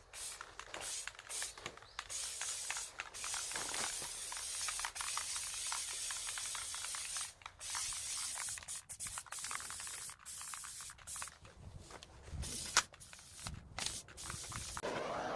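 Hissing spray in repeated on-off bursts, some a second or two long, broken by short gaps, with a few light knocks near the end.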